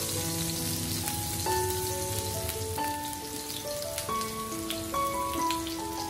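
Diced red onion sizzling in oil in a frying pan: a steady crackle with many small pops, like rain pattering. Soft background music with held notes plays over it.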